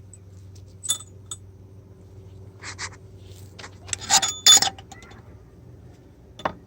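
Metal hand tools and bolts clinking and clattering: a couple of light clinks in the first half, a louder cluster of ringing clinks about four seconds in, and a last click near the end.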